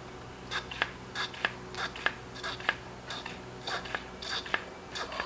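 Husqvarna 125B leaf blower being handled before a start attempt: a run of light, sharp clicks and taps, about two or three a second.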